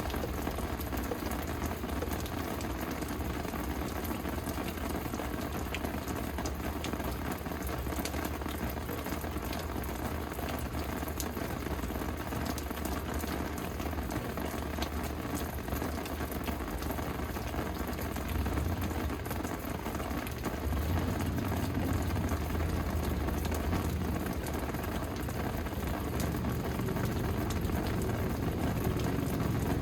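Steady rain falling, a constant hiss with many small drop ticks, over a low rumble that grows a little louder in the second half.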